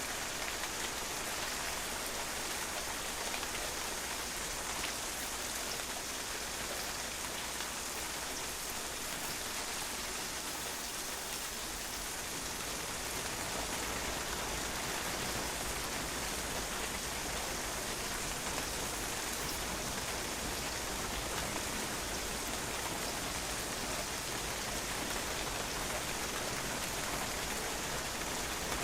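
Steady rain falling on a patio, an even hiss of many drops spattering on hard ground.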